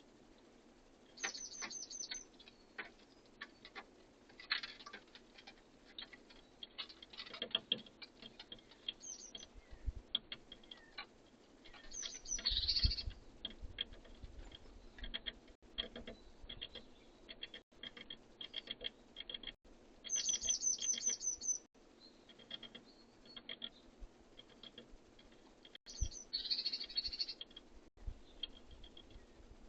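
Small songbirds chirping and calling: repeated short high notes and quick runs of falling chirps, with scattered light ticks and tapping. A couple of dull thumps come midway.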